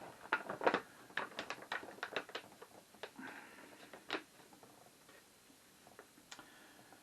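Empty beer-kit pouch being handled and turned over, its plastic crinkling and crackling in a quick run of sharp clicks that thins out after about four seconds.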